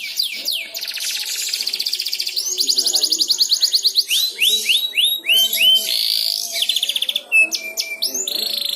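Domestic canary singing: fast, even trills alternating with runs of repeated downward-sweeping notes, one phrase after another without a break.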